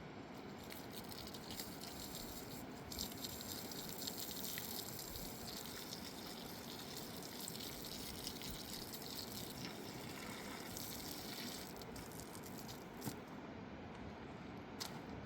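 Flowing river water, with a stretch of louder splashing and gushing from about three seconds in to about eleven seconds, and a couple of sharp clicks near the end.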